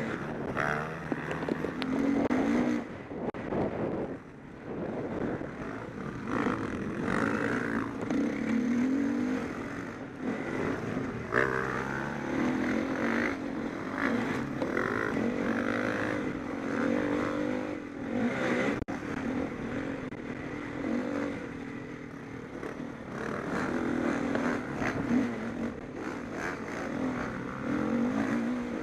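Several motocross bikes racing, their engines repeatedly revving up and easing off, with more than one engine heard at once.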